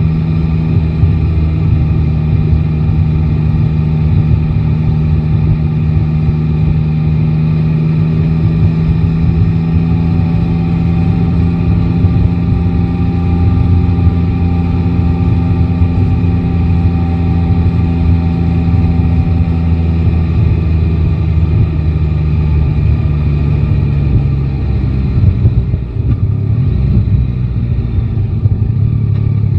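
Yamaha Tracer 9 GT's inline three-cylinder engine running at a steady pitch under way, with wind and road noise. About twenty-five seconds in, the engine note drops and settles at a lower pitch.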